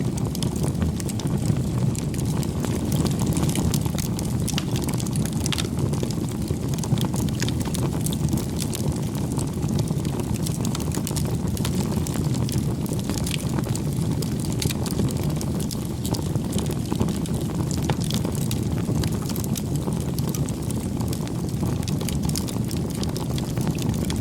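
Wood campfire burning: a steady low rush of flames with frequent small crackles and pops.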